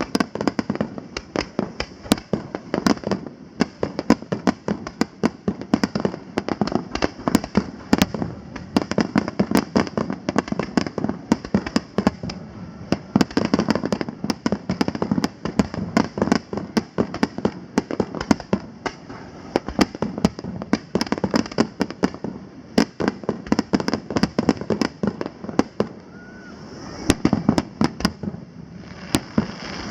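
Fireworks display: a rapid, unbroken series of bangs and crackles, several a second, from shells bursting overhead.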